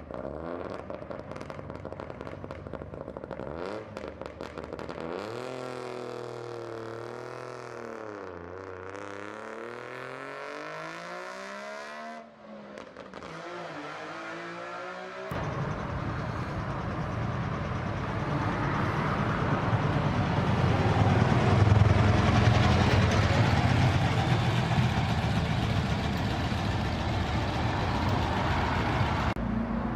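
Classic cars driving past one after another. First an engine whose pitch rises and falls as it goes by, then, about halfway through, a louder engine sound starts suddenly, builds to a peak a few seconds later and eases off.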